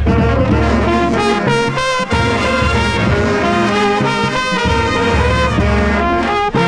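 Marching band playing a loud brass-heavy tune, with changing sustained notes over a strong low-brass bass line, heard from within the saxophone section.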